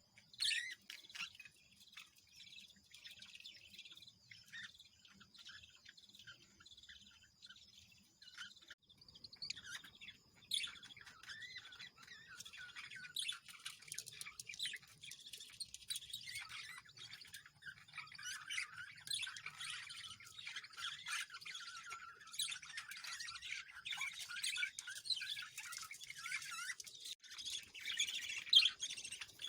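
Several birds chirping and calling in quick, overlapping notes. The chirping is sparse at first and grows into a busy chorus about a third of the way in. A steady high tone runs underneath during the sparse stretch.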